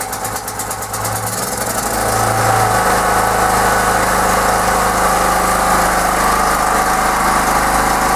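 Lifan four-stroke portable generator engine running. About a second in it picks up and within another second settles into a steady, louder run.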